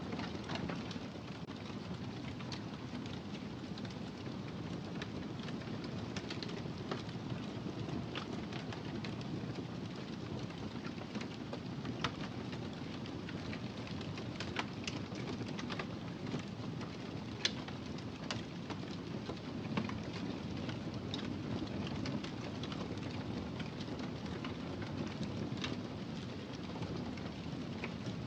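Wood fire burning in a fireplace: a steady low rumble with scattered crackles, and two sharper pops about twelve and seventeen seconds in.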